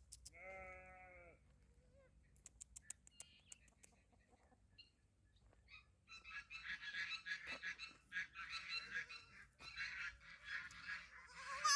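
A sheep bleats once, about a second long, near the start. From about six seconds in, a busy chatter of many high-pitched farm-bird calls carries on to the end.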